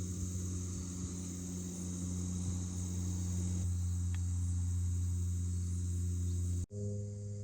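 Crickets chirping in a steady, continuous chorus over a low, sustained drone of ambient background music. The sound drops out for a split second near the end, at an edit.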